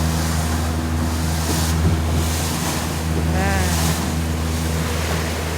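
Boat engine running steadily with a low drone, with wind gusting across the microphone. A brief wavering high-pitched sound comes about three and a half seconds in.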